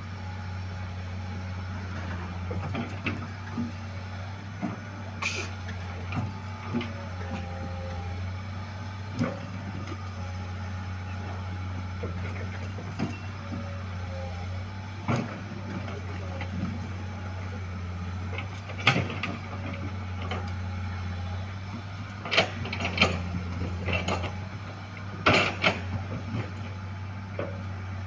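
A large engine running steadily at idle, with scattered sharp knocks and clatters, most of them in the second half.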